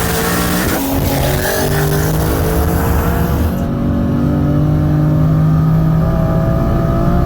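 Two built turbocharged cars, a twin-turbo Ford Mustang GT and a single-turbo BMW M4, accelerating at full throttle in a roll race from 60 mph. The engine pitch climbs steadily through the gear.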